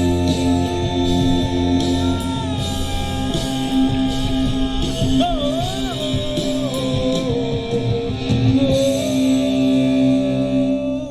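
Live rock band playing the end of a song: guitars, bass and drums with cymbal crashes under a held melody line that bends up and down in pitch about halfway through. The final chord cuts off and rings out at the very end.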